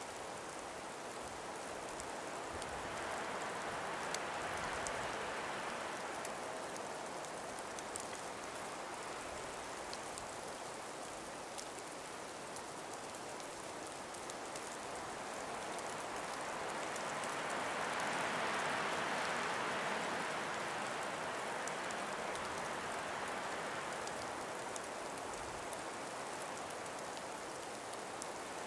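Light wind through a frost- and ice-laden forest, swelling into two gentle gusts, about four seconds in and again around eighteen seconds, with a fine patter of small ticks throughout.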